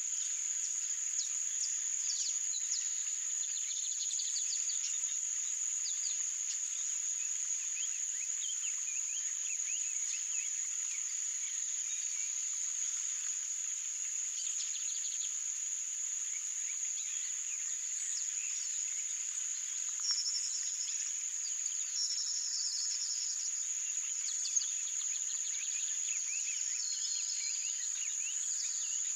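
A steady, high-pitched insect drone runs throughout, with many short bird chirps scattered over it, busiest in the first half. A few runs of longer falling whistled notes come about twenty seconds in.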